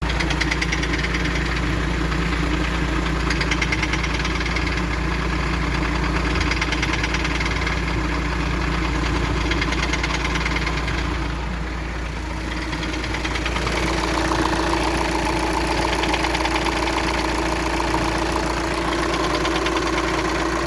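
VW T5 diesel engine running with a rapid knocking from the engine. The sound dips briefly about halfway, then picks up again.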